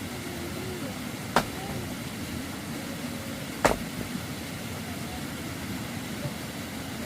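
Two sharp knocks about two seconds apart over a steady low rumble.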